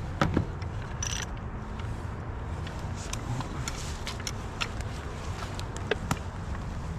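Rope and metal parts of a GRCS capstan winch being handled, giving scattered clicks and knocks, with a short hiss about a second in, over a steady low rumble.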